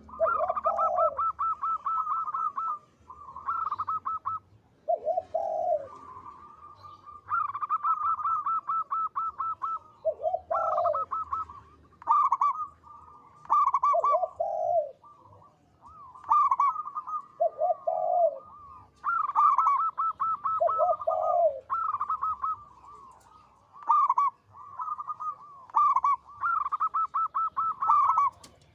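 Zebra dove (perkutut) cooing song: repeated phrases of quick, pulsing high notes, each phrase broken by a lower, rounder coo every few seconds.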